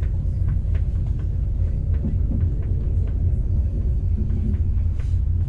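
Steady low rumble of a passenger train running at speed, heard from inside the carriage, with faint scattered clicks from the wheels and track.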